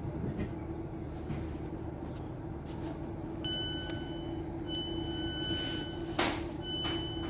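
Interior of a Class 707 electric multiple unit standing at a station, with a steady electrical hum; about halfway through, the door alarm starts a series of high, repeated beeps, and a short hiss or clunk from the doors sounds near the end.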